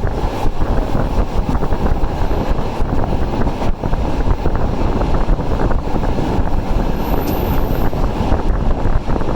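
Passenger train running at speed: a loud, steady rumble of carriage wheels on the rails with rushing air.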